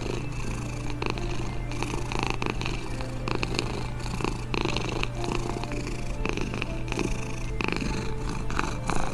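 Domestic cat purring steadily: a continuous low rumble with short crackly rasps running through it.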